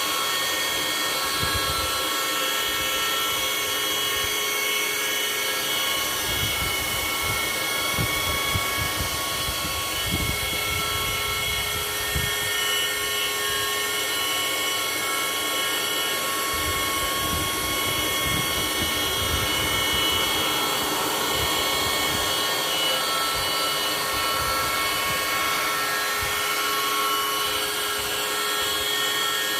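A motor-driven machine running steadily: a constant whirring hiss with several high whining tones held level, and an irregular low rumble that comes and goes.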